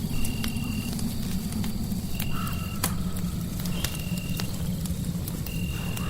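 Fireplace crackling, sharp pops scattered over a steady low rush of fire and white noise. A short high, even tone repeats about every two seconds, and brief mid-pitched chirps come in about two seconds in and near the end.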